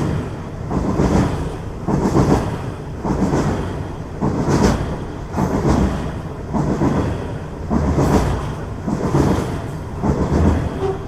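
A train running on the rails, with a regular beat about once a second from its wheels passing over the rail joints.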